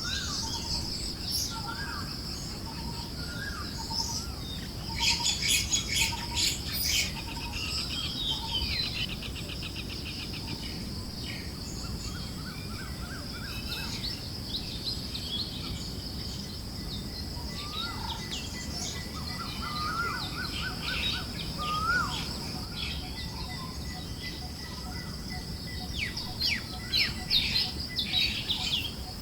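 Forest birds chirping and trilling over a soft, steady rush of wind, with quick flurries of chirps about five seconds in and again near the end.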